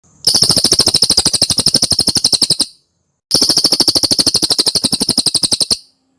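Cililin songbird giving a fast, loud trill of about ten notes a second, in two bursts of about two and a half seconds each with a brief pause between them.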